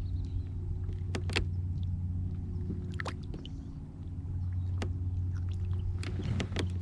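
Steady motor hum with several higher overtones, easing off briefly about four seconds in and then picking up again. Several short sharp clicks and knocks are scattered over it.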